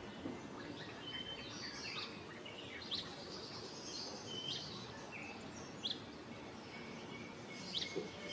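Wild birds calling: a scatter of short high chirps and brief whistled notes, some falling quickly in pitch, over a steady faint outdoor hiss.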